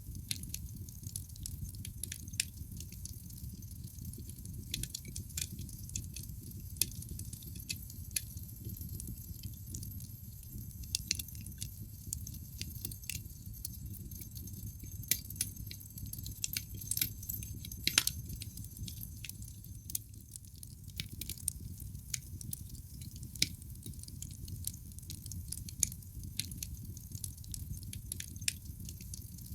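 Wood fire crackling in a fireplace: irregular sharp pops and snaps, a handful louder than the rest, over a steady low rumble.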